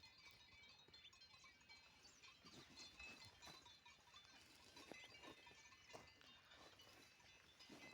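Near silence: faint ambience with scattered short, high-pitched chirps and a few soft clicks.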